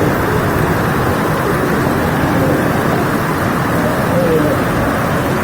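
Heavy rain pouring down, a loud steady rush of noise.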